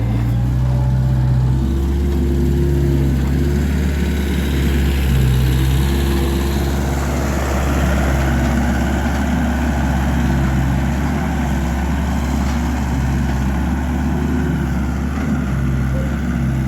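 An engine on farm machinery running steadily, its pitch shifting slightly up and down every few seconds.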